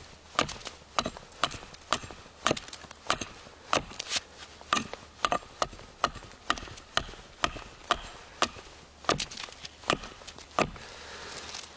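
Repeated sharp knocks of a tool chopping into wood, irregular, about two or three strikes a second, easing off briefly near the end.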